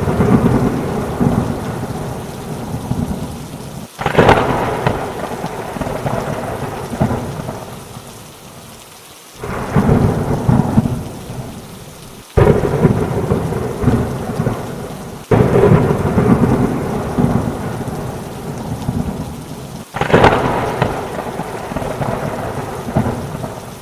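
Heavy rain with thunder: five thunderclaps, each crashing in suddenly and rumbling away over a few seconds, about every three to five seconds.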